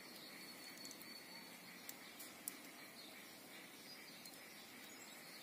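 Near silence: faint outdoor background hiss with a thin high tone in the first second, and two light clicks about two and two and a half seconds in.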